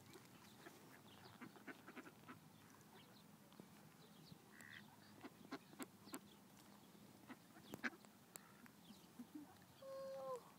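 Near quiet with faint scattered clicks and ticks, then one short waterfowl call that dips in pitch at its end, near the end.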